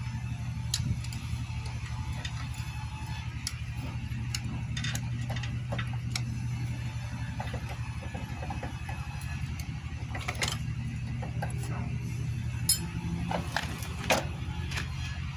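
Metal hand tools clicking and clinking on a motorcycle engine being dismantled. The taps are short and irregular, with a couple of sharper knocks near the end, over a steady low hum.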